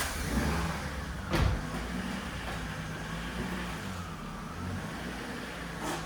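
Car engine running at a steady idle, with a sharp knock about a second and a half in.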